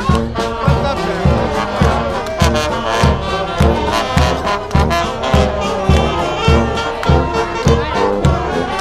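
Brass band music with trumpets and trombones over a steady bass-drum beat, about two beats a second, with crowd voices underneath.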